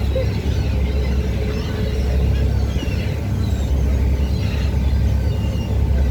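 Strong wind buffeting the microphone over the steady low rumble of a boat's engine.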